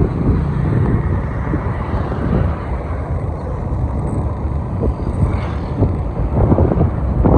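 Steady rumbling road and wind noise of riding along a road in a moving vehicle, with wind buffeting the microphone.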